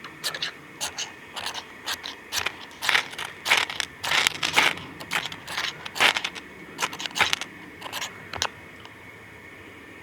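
Ferrocerium fire-steel rod struck with a scraper again and again to throw sparks: a run of quick, irregular scrapes that stops about eight and a half seconds in.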